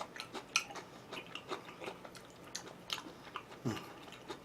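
Close-miked chewing: irregular wet mouth clicks and smacks of a person eating with the mouth near the microphone.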